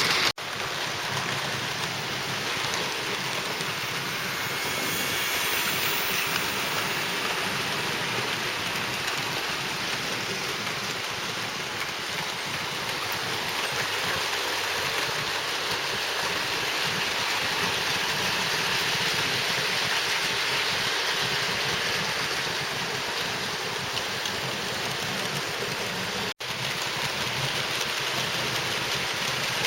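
00 gauge model trains running on the layout track: a steady rushing rattle of small wheels on rails and points, broken by two brief sudden gaps, about half a second in and near the end.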